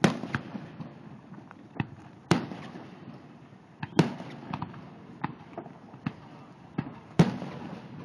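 Aerial fireworks going off: a run of sharp booms, five loud ones a second or two apart with smaller cracks in between, each trailing off in a short echo.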